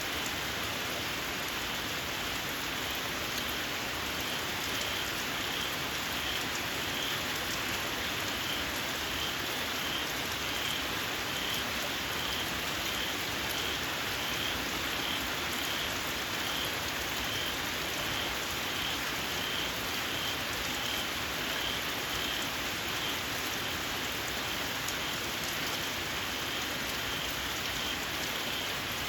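Steady rain falling, with a small frog calling a short, high-pitched squeak over and over, about two calls a second.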